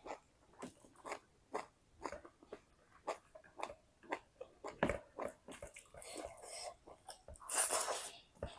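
Close-miked mukbang chewing: wet mouth clicks and crunches about twice a second, with a louder, hissier burst near the end.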